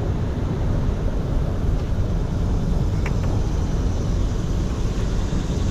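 Wind buffeting the microphone, giving a steady, uneven low rumble, with a faint click about three seconds in.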